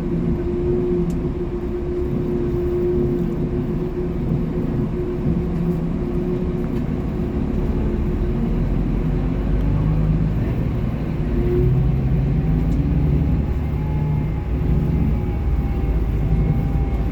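Steady motor-vehicle engine drone and road rumble while on the move, with a faint whine that rises and falls in the second half.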